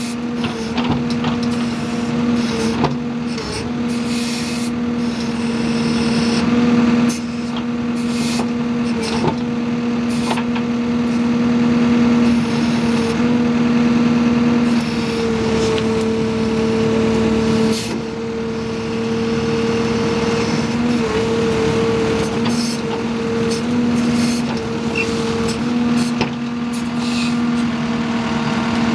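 Backhoe engine running steadily under load, its pitch dipping and shifting a little at times, with frequent knocks and clanks over it.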